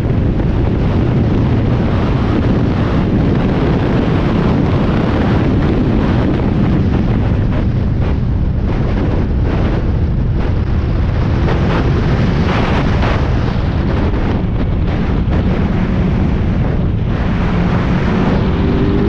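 Spec Miata race car's four-cylinder engine running at speed on track, heard from the car with loud, steady wind buffeting on the microphone.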